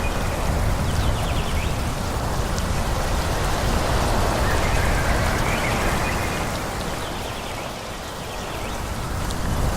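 Wind rushing through forest trees, a steady hiss with a low rumble that eases about two-thirds of the way through and swells again near the end. A few faint high chirps sound now and then.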